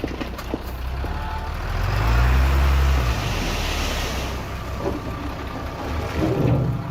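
Heavy diesel machinery running, the engine revving up and back down about two seconds in, with a rushing noise over it through the middle.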